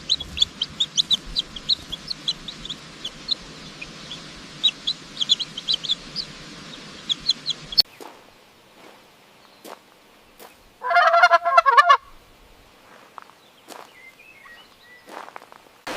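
Domestic fowl: many short, high peeps in quick succession, then after a sudden cut a quieter stretch with a few clicks and one loud fowl call lasting about a second.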